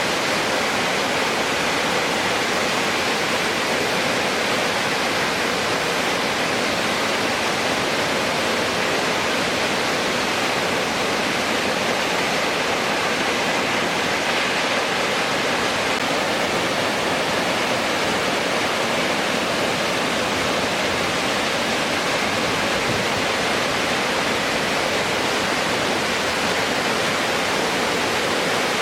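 Waterfall in heavy flood after a typhoon, its high water volume making a steady, unbroken rush of falling water.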